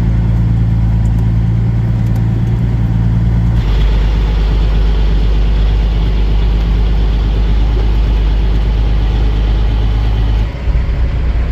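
Semi truck's diesel engine running steadily as it drives, heard from inside the cab as a loud low drone with road noise. The sound changes suddenly about three and a half seconds in, the low engine note dropping and more road noise coming up, and shifts again near the end.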